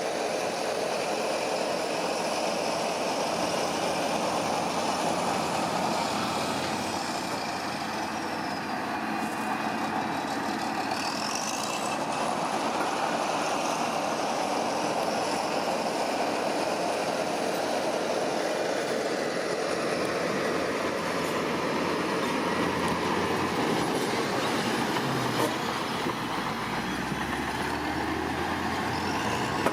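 Heavy construction machinery running steadily, a continuous engine and mechanical noise. About ten seconds in, a high whine slides down and then back up, and a deeper rumble joins near the end.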